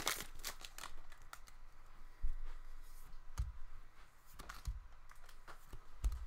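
Trading cards being handled and sorted: scattered light clicks and snaps, with a few soft knocks on the table.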